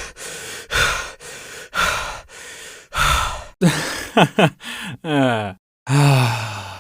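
A string of separate human sighs, about one a second: the first few are breathy exhales without pitch, and the later ones are voiced with a falling pitch.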